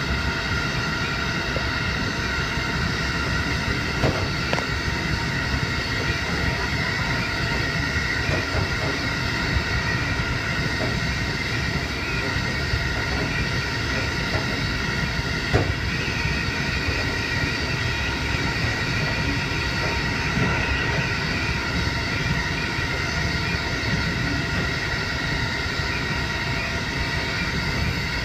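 JR Hokkaido 711 series electric multiple unit running steadily at speed: a continuous rumble with a steady high hum, and a few sharp knocks from the wheels, about four seconds in and again near the middle.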